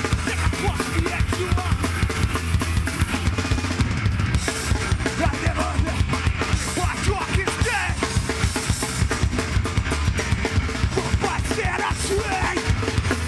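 Live heavy metal band playing an instrumental stretch, with the drum kit to the fore: rapid kick drum and snare hits over a heavy bass.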